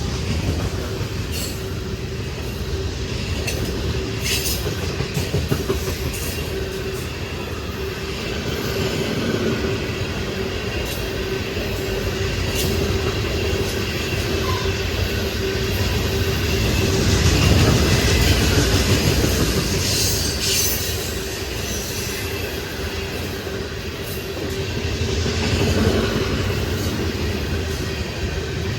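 A train rolling past, with a steady low rumble and scattered sharp clicks from the wheels crossing rail joints. The sound swells twice as cars go by.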